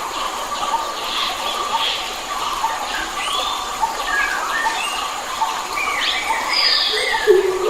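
Several wild forest birds singing at once, overlapping short whistled phrases and chirps, over a steady background hiss. A lower whistled phrase comes in near the end.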